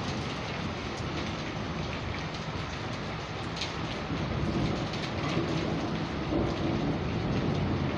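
Heavy rain pouring down in a thunderstorm, a steady dense hiss with scattered drop ticks and a low rumble underneath, growing a little louder about halfway in.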